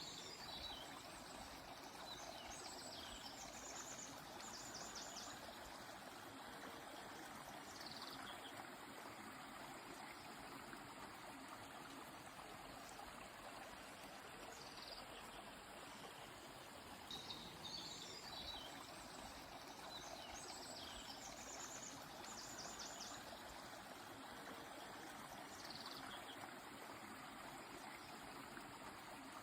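Steady rush of a flowing stream, with a songbird singing short high phrases over it every few seconds: quick rapid-note trills and single falling notes.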